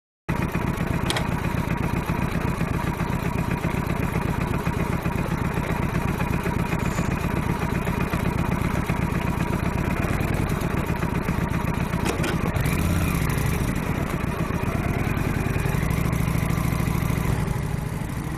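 Motorcycle engine running under way, a steady pulsing beat with a haze of wind and road noise. About two-thirds of the way in, its pitch dips and then climbs again as the rider eases off and accelerates.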